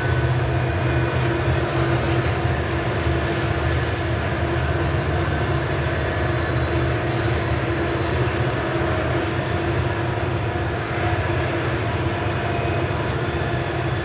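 Loaded coal hopper cars rolling past on the rails: a steady, even rumble of wheels and car bodies, with faint steady tones over it.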